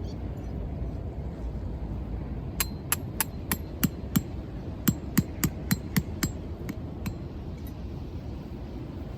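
About fifteen sharp, ringing hammer strikes at roughly three a second, then they stop.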